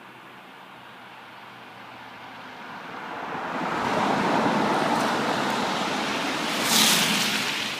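BMW F30 328i's turbocharged four-cylinder through a performance rear silencer, its engine and exhaust echoing in a tunnel. The sound grows louder over a few seconds, peaks with a brief sharp rush near the end, then eases off.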